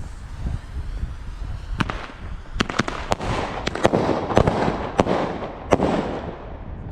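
Fireworks going off: about a dozen sharp bangs over some four seconds, starting about two seconds in, with crackling between them.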